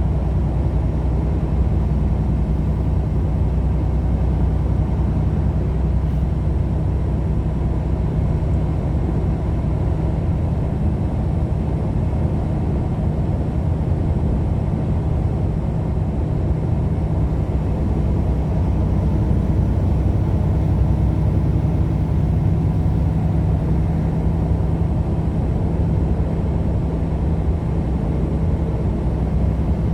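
Steady road and engine drone of a vehicle cruising at speed, heard from inside the cabin, with an even low hum and no changes in level.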